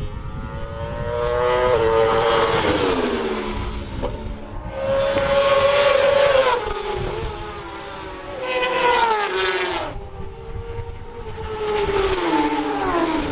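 Racing motorcycles passing one after another, about four in turn, each engine note swelling and then dropping in pitch as the bike goes by.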